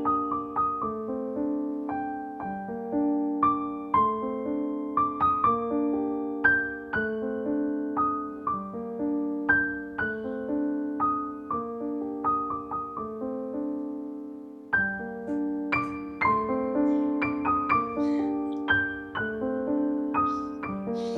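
Background piano music: a gentle melody of single struck notes over held chords, with a brief dip just before the phrase starts again about fifteen seconds in.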